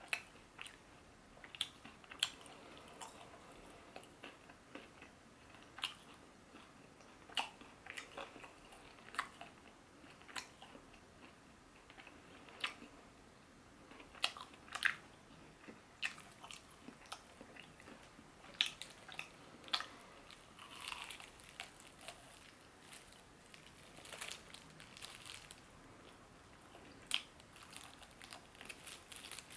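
Close-up chewing and biting of crispy fried chicken: irregular, sharp crunches of the breaded crust with wet mouth sounds in between.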